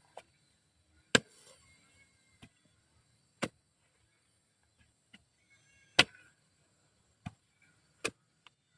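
Sharp, irregularly spaced chopping strikes on wood, six blows with the loudest about a second in and six seconds in, over a faint steady high insect drone.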